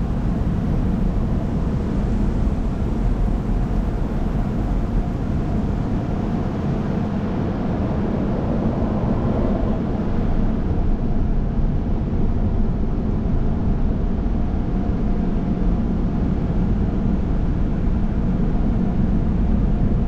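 Automatic car wash machinery heard through a car's closed cabin: a steady, heavy rushing noise, strongest in the low end.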